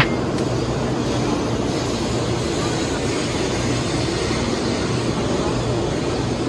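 Taiwan High Speed Rail 700T bullet train rolling slowly along the platform as it pulls in to stop: a steady rush of running noise with a low rumble.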